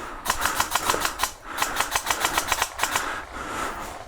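Airsoft gun firing two full-auto bursts of about ten shots a second, each lasting about a second, with a short gap between them.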